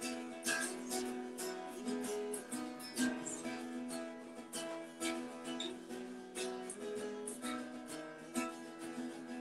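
Strummed acoustic string instrument playing chords at a steady pace, with a stroke about every half second; it is the instrumental introduction to a worship song.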